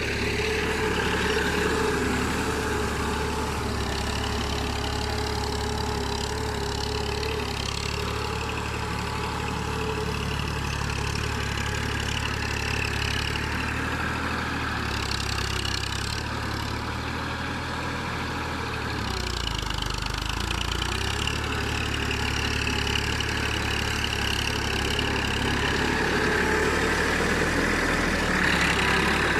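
TAFE 45 DI tractor's diesel engine running steadily, its pitch wavering slightly up and down.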